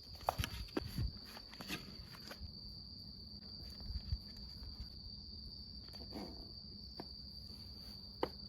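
An insect trilling steadily on one high pitch, with a few sharp clicks in the first two seconds and a soft rustle about six seconds in.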